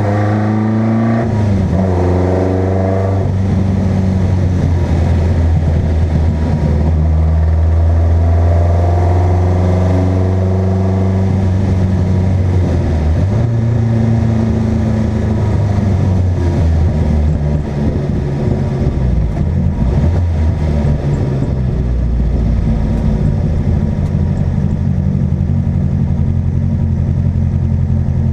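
Car engine running hard under acceleration, its pitch climbing in the first few seconds and again about halfway through, then holding at fairly steady revs.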